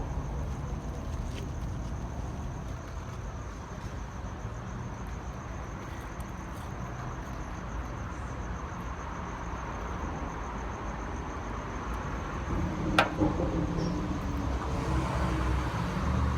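Low, steady road-traffic rumble under a thin, steady high-pitched trill, with one sharp click about thirteen seconds in.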